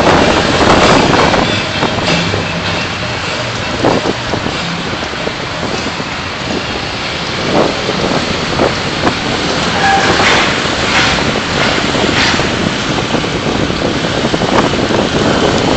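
Steady road and wind noise from a vehicle driving in city traffic, buffeting the recorder's microphone, with a few short knocks and a brief tone about ten seconds in.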